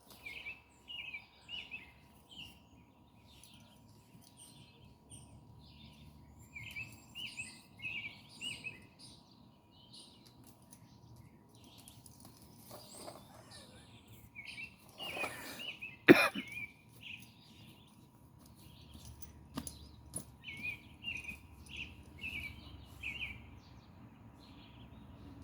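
Songbirds chirping outdoors in short runs of quick repeated notes, three runs over the stretch. About two-thirds of the way through there is a brief rustle and one sharp, loud knock.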